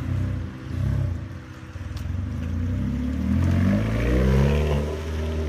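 2006 Hyundai Tiburon's engine and exhaust being revved. Two short blips come in the first second, then a longer rev climbs in pitch and loudness to a peak about four seconds in before dropping back.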